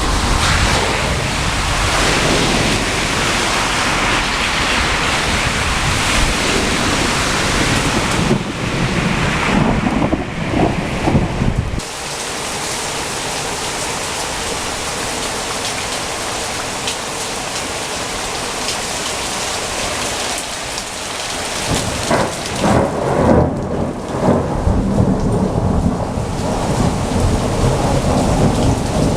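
Heavy rain falling steadily, with rolling thunder. Deep rumbles fill the first ten seconds or so, then rain alone through the middle, then thunder rumbles and crackles again from about two-thirds through.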